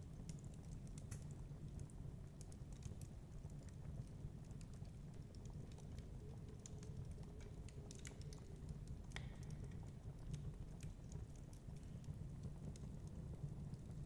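Wood fire crackling: irregular sharp pops and snaps, one a little louder about nine seconds in, over a steady low rumble.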